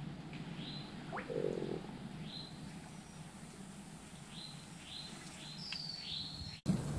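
Small birds calling in the background: short high chirps repeated every second or so, a rising whistle about a second in, and a longer falling note near the end. It all sits over faint steady outdoor ambience.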